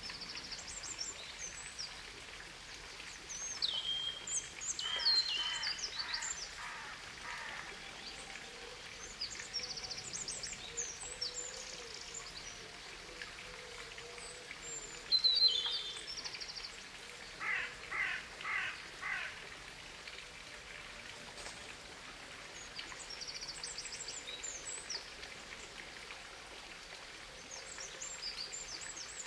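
Several birds chirping and singing over a steady soft hiss: high chirps and short trills come and go, and twice a bird gives a run of four or five repeated lower notes.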